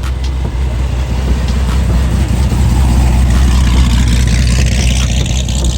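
Car engine running steadily, a low drone with a hiss that swells in the middle and eases off near the end.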